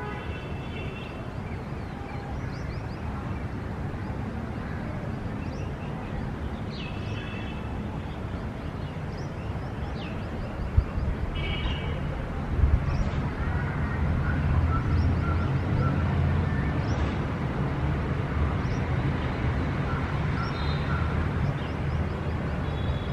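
Outdoor ambience of birds chirping in short calls over a steady low traffic rumble, which grows louder about halfway through. A couple of sharp thumps come just before it swells.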